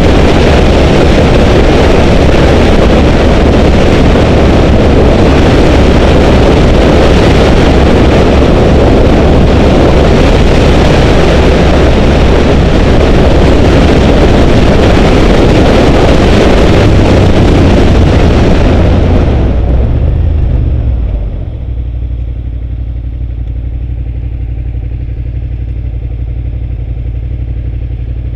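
2005 Suzuki SV650's V-twin engine running under way, with heavy wind rush. About twenty seconds in the wind and engine noise die away, and the engine settles to a steady, quieter idle.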